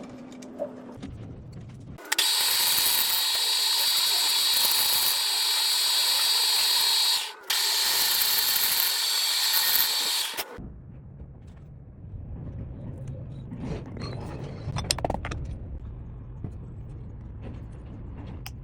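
A power tool running loudly and steadily with a high whine for about eight seconds, stopping for an instant partway through. After it cuts off, a lower rumble with scattered clicks and knocks follows.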